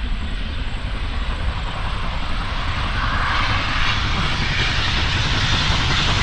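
Approaching heritage train, a steady roar that grows louder throughout, getting brighter from about halfway in.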